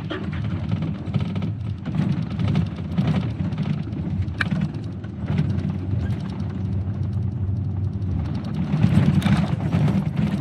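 Off-road SUV driving, a steady low road rumble with scattered knocks and rattles.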